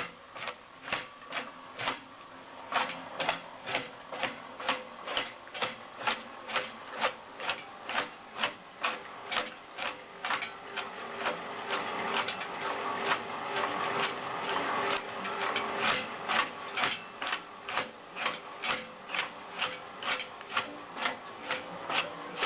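Steady mechanical clicking, about two sharp clicks a second, quickening slightly later on.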